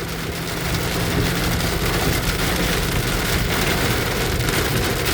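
Heavy rain pouring down on a vehicle, steady and dense, with a low steady hum of the vehicle underneath.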